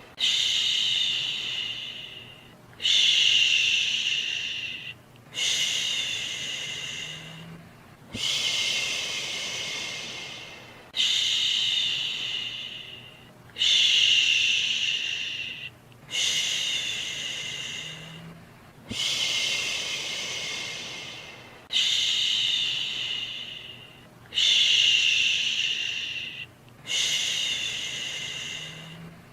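Rhythmic 'shhh' shushing meant to soothe a baby to sleep: about eleven long shushes, each starting suddenly and fading away, one every two and a half to three seconds. A faint steady white-noise hiss runs underneath.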